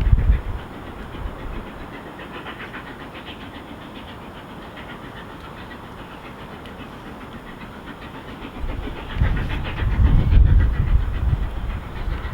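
Steam locomotive 46100 'Royal Scot' running with its train, a steady rush with faint regular beats. Wind buffets the microphone briefly at the start and again in heavy gusts from about nine seconds in.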